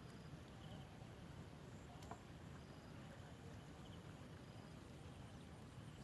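Near silence: faint steady background rumble, with a few faint short high chirps and a soft click about two seconds in.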